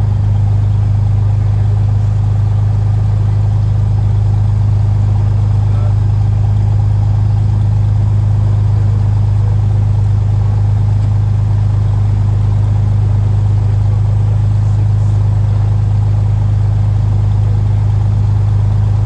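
Steady drone of a Cessna RG's single piston engine and propeller: a constant low hum that holds the same pitch and level throughout.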